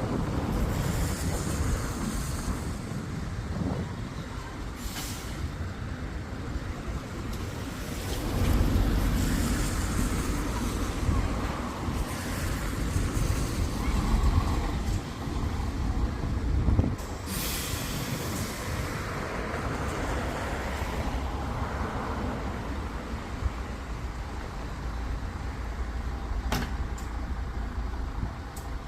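Buses running in street traffic, with engine rumble throughout and two short hisses of air brakes, about five seconds in and again around seventeen seconds in.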